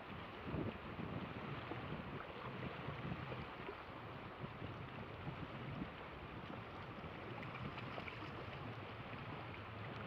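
Steady outdoor noise of wind on the microphone and moving water, with a faint low knock or two in the first second.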